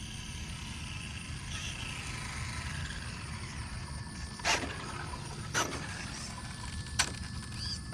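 Steady outdoor background rumble, broken in the second half by three sharp clicks or knocks a second or so apart.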